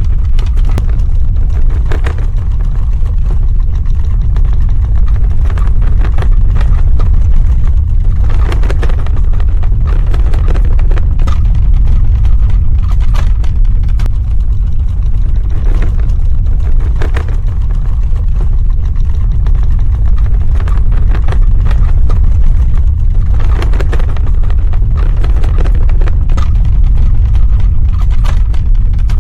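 Earthquake sound effect: a deep, continuous ground rumble with steady crackling and grinding on top, swelling and easing every few seconds.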